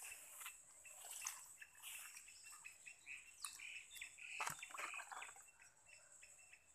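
Faint outdoor ambience of small birds chirping in short, scattered calls, one of them a quick falling whistle about three and a half seconds in, with a few soft clicks mixed in.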